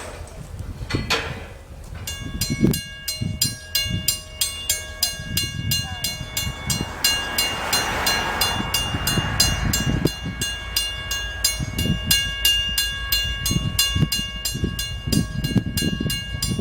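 A railroad crossing warning bell ringing in rapid, even strikes while a train passes, with a rushing swell of train noise in the middle and low clattering thumps of the wheels.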